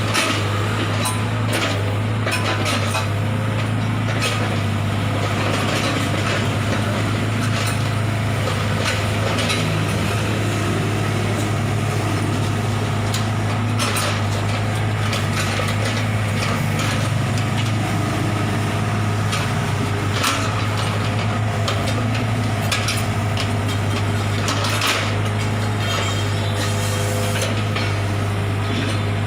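A machine engine running with a steady low hum, over scattered clanks, knocks and scrapes of road-repair tools.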